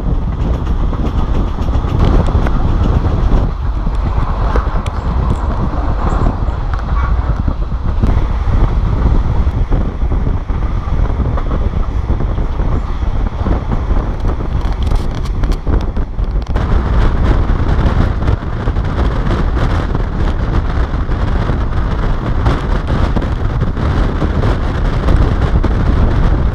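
Wind rushing over the microphone at the window of a moving passenger train, over the steady rumble of the train running on the rails. The rushing grows louder and brighter about two-thirds of the way through.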